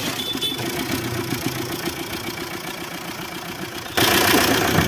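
Maruti Suzuki Swift Dzire engine idling steadily just after starting on the first crank. About four seconds in, a louder rushing noise comes in over it.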